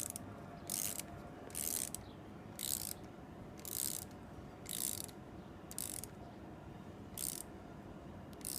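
Socket ratchet tightening the lock bolt of the differential cross pin on a Dana 44 axle. It gives a short clicking rasp about once a second, about nine strokes.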